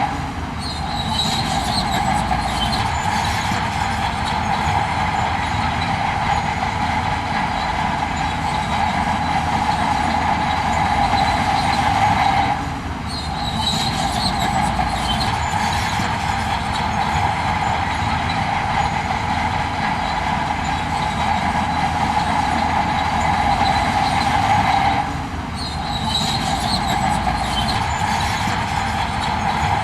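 Heavy construction machinery running steadily: a low engine rumble under a strong metallic whine, dipping briefly about every twelve and a half seconds in the same repeating pattern.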